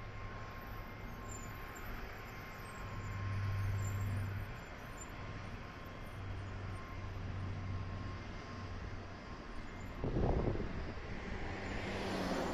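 Low, wavering rumble of distant traffic and trains under a steady hiss, with a faint steady high tone. There is a short low thump about ten seconds in, and near the end a rising hiss as a Tokaido Shinkansen train draws near.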